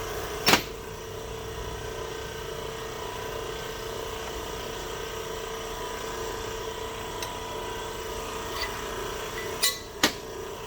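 Steady hum of the hydraulic press's electric pump motor. A sharp metallic clank sounds about half a second in, and two more come near the end.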